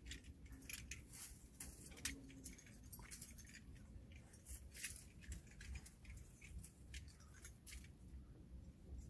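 Faint, irregular small clicks and clinks of metal climbing hardware, scattered over several seconds.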